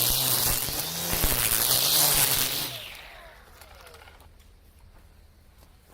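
Makita 40V cordless brush cutter with nylon trimmer line running and swishing through weeds, its motor hum rising and falling with the load. About three seconds in it is released and spins down with a falling whine, leaving only faint rustling and small clicks.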